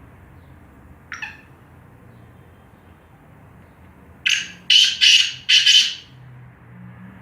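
Black francolin calling: one short note about a second in, then four loud, harsh notes in quick succession over about two seconds.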